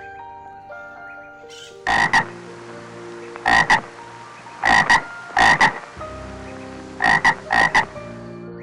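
An animal giving loud, short calls in quick pairs, six pairs in all, over background music with steady notes.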